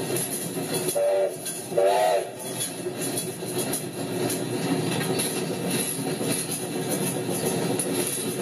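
Train running along the track with a steady rumble, and two short horn blasts about one and two seconds in.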